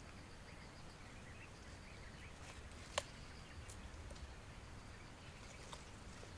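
Faint crisp crackling and clicking of raw elephant grass stalk being chewed, with one sharp snap about three seconds in.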